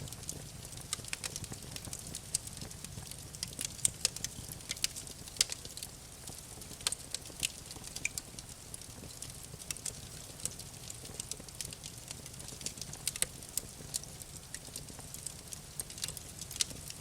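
Wood fire crackling: irregular sharp pops and snaps over a soft, steady low rumble.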